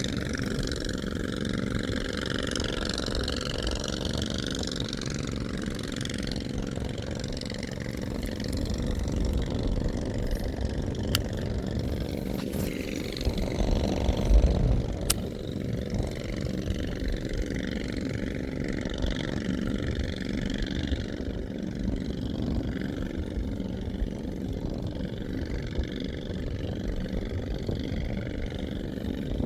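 A small boat's engine running steadily, with a brief louder swell about halfway through.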